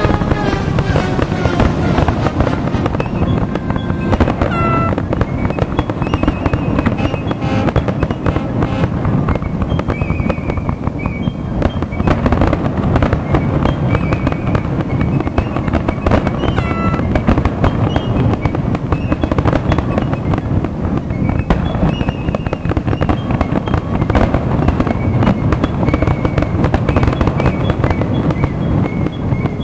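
Fireworks going off in a dense, continuous barrage of overlapping bangs and crackle, with short high whistling tones scattered through it.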